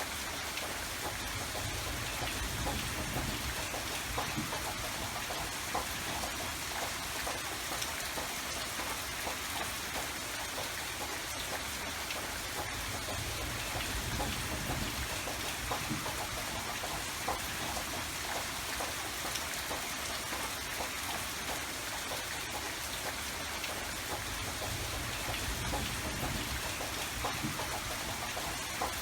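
Steady rain falling, with many close raindrops pattering on surfaces and a low rumble that swells and fades at times.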